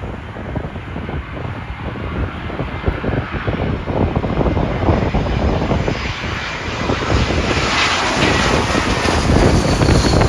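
Jet airliner engines growing steadily louder as the aircraft approaches, swelling to a loud rushing roar with a faint rising whine near the end, over gusting wind on the microphone.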